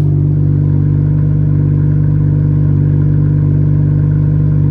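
BMW M240i's B58 turbocharged inline-six idling steadily through a muffler-delete exhaust with Dynomax Race Bullet resonators, the revs settled after start-up. A steady, even exhaust drone with no revving.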